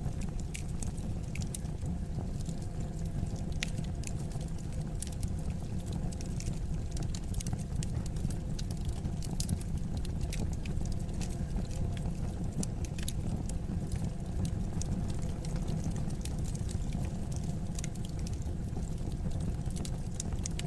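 Wood fire crackling in a fireplace: many small irregular pops and snaps over a steady low rumble of the burning logs.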